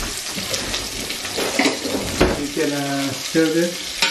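Chopped onion and whole spices sizzling in hot olive oil in a stainless steel pot, a steady hiss, with a few knocks of a wooden spoon stirring against the pot.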